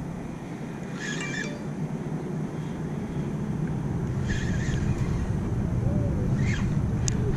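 A low rumble that slowly grows louder, with a few short bird calls over it, spaced a couple of seconds apart.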